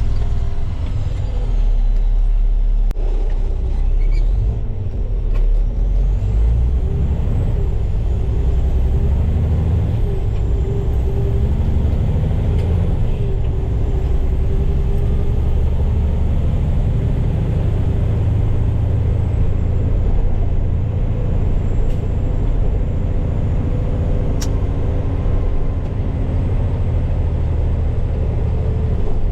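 Heavy diesel truck driving, its engine running at a steady drone with a low rumble.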